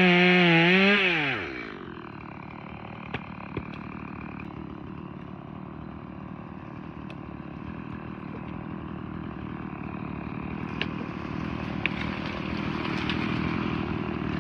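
Electric hedge trimmer running at full speed, then winding down as it is switched off about a second in. It is followed by a quieter, steady noise with a few sharp clicks, which grows slightly louder toward the end.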